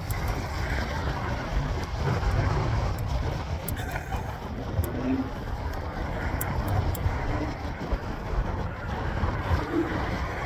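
Steady low rumble of wind and road noise on a microphone carried on a mountain bike riding along a city street, with a few light clicks scattered through.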